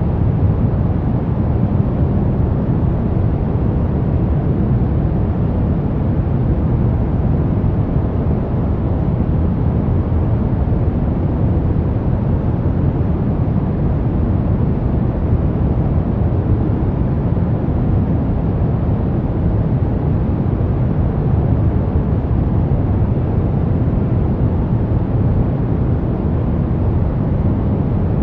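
Brown noise: a steady, deep rumbling hiss, strongest in the low end, with no changes or events.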